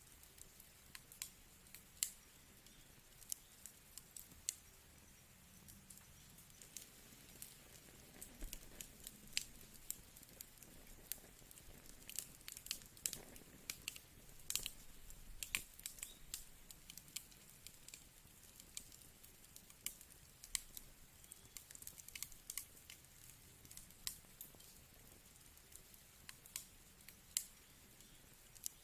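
Firewood burning with irregular crackles and sharp pops over a faint steady hiss.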